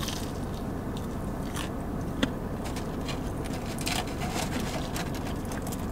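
Mouth-close chewing of a bite of fried chicken tender: soft crunching of the breading and scattered wet mouth clicks, over a steady low rumble.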